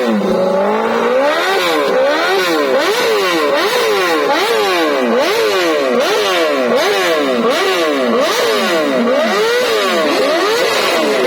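Litre-class sport bike engine revved over and over through its exhaust, the pitch rising and falling about twice a second in quick throttle blips.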